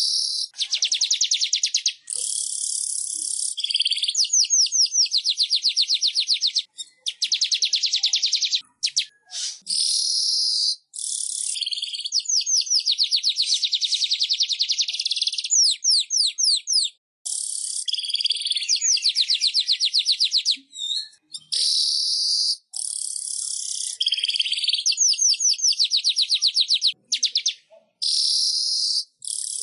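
Manyar (weaver bird) song: phrases of a few seconds each of very fast, high-pitched buzzy chatter, broken by short pauses. Some phrases are runs of quick rising squeaky notes.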